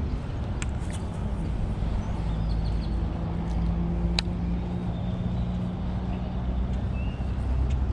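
A car engine running steadily, a low hum with a held tone. Faint bird chirps and a few sharp clicks come over it.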